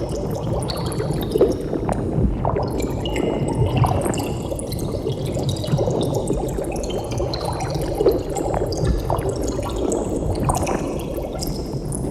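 Water bubbling continuously: a dense low gurgle with many small bubbles popping in quick, irregular succession.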